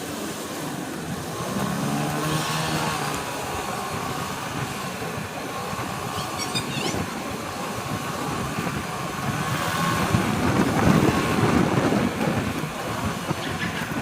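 Motorcycle engine running while riding, with wind and road noise. The engine sound swells about two seconds in and again, louder, around eleven seconds.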